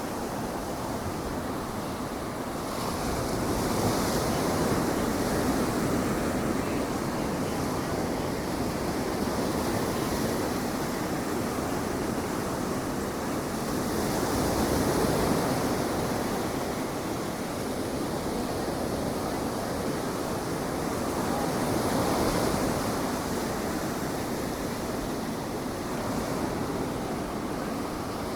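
Ocean surf washing onto a sandy beach: a continuous rush of breaking waves that swells louder three times, about 4, 15 and 22 seconds in.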